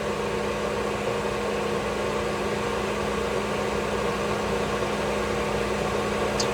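Steady whir of an electric fan running, with a constant low hum and no change in speed.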